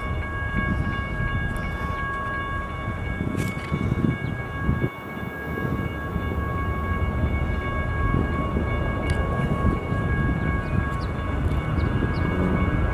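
An approaching train: a low, uneven rumble with a stack of steady high-pitched tones held throughout.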